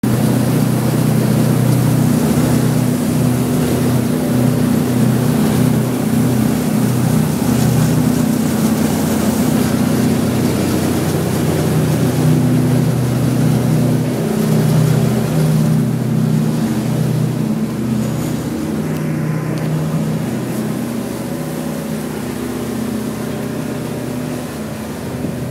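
A large boat's engine running steadily with a low hum, under a constant rush of wind and water.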